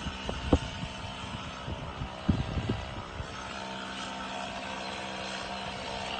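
An engine running steadily at idle, with a few dull knocks about half a second in and again around two and a half seconds in.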